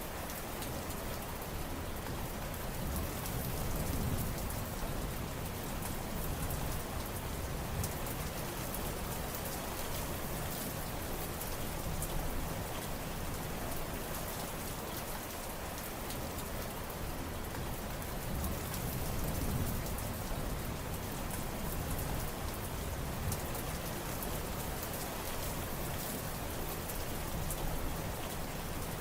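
Steady rain falling on surfaces, individual drops patting among the constant hiss, with a soft low rumble that swells gently twice.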